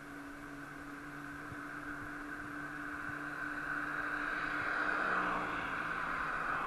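A road vehicle passing, its tyre and road noise swelling to its loudest near the end, over a steady low hum.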